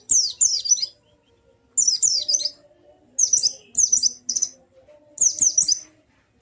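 White-eye (pleci) singing in short bursts of three or four rapid, high whistled notes that sweep downward, repeated every second or so with brief pauses between.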